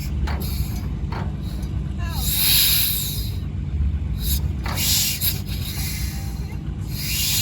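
Antique engine running with a steady low rumble, and a hissing puff every two to two and a half seconds.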